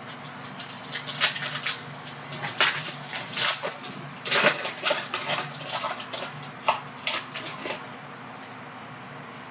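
Prizm trading-card packs and cards being handled and opened: a quick run of sharp crinkles and clicks that stops a second or two before the end.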